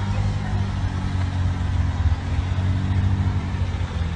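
Car engine running steadily at low revs, a continuous low hum with no sharp revving.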